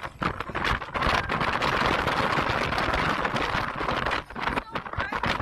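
Motorcycle running at road speed, with wind rushing and buffeting over the microphone as a dense hiss that dips briefly near the end.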